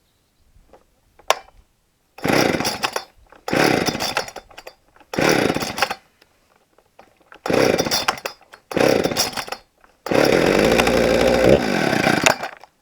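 Husqvarna 455 Rancher two-stroke chainsaw being started: the engine fires in five short bursts, each dying within a second, then runs for about two seconds before cutting out. The saw is out of fuel.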